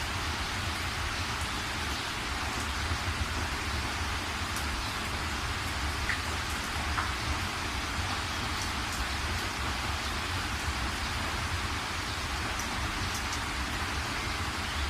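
Steady rain falling and pattering on surfaces, with a low rumble underneath and a few distinct drops now and then.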